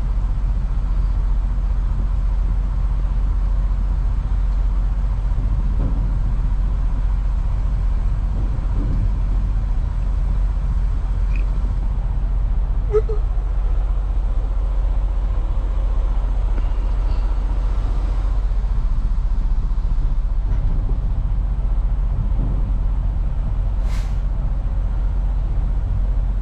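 Semi-truck's diesel engine idling steadily, a low rumble heard from inside the cab, with a few faint clicks and one short sharp sound near the end.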